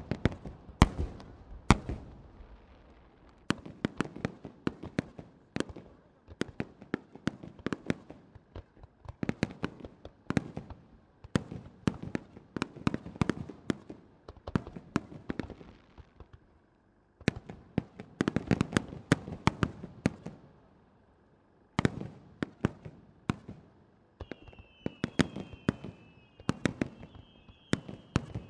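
Aerial fireworks shells bursting in rapid-fire starmine volleys, many sharp bangs a second with crackling decays, coming in clusters with short breaks between them. A faint whistle runs over the bursts near the end.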